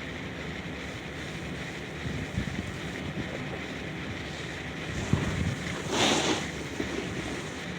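Steady outdoor background noise with wind buffeting the microphone, and a short, louder rush of noise about six seconds in.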